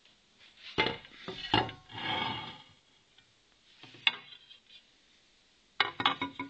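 Pieces of a handmade glass cake stand knocking and clinking against each other as they are handled and set in place, with a brief scrape around two seconds in and a quick run of clinks near the end.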